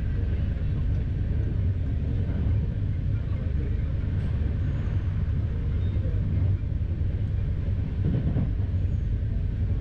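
Tejas Express passenger coach running at speed, heard from inside the coach: a steady low running noise of wheels on rail.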